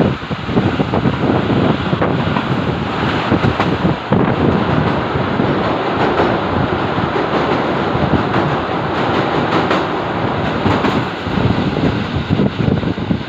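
A train running on the rails, a steady loud rumble mixed with heavy wind buffeting on the microphone.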